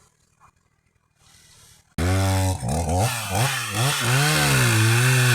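Chainsaw engine catching about two seconds in and running loud, its revs swinging up and down again and again.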